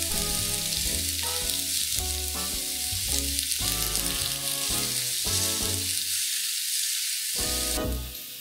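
Onions, red bell pepper, chilies and curry leaves sizzling in hot oil in a kadai, over light background music. The sizzle drops away suddenly near the end.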